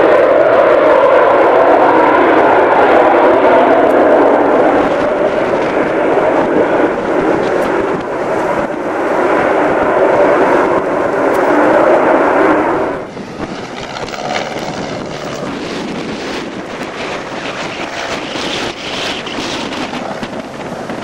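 A fixed-wing aircraft's engines running loudly and steadily. About two-thirds of the way through the sound drops off abruptly to a much quieter rushing noise.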